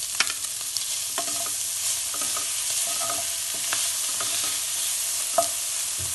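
Chicken pieces with onion and ginger-garlic frying in a nonstick pan: a steady sizzle, broken by the clicks and scrapes of a spoon stirring them, the sharpest about five seconds in.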